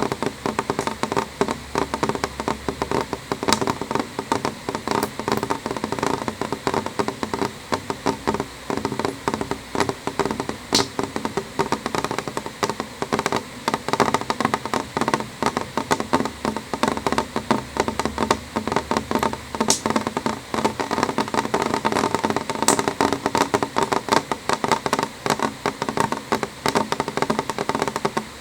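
Rain falling on a window pane, heard from inside: a dense, uneven stream of small drop taps on the glass, with a few sharper single clicks.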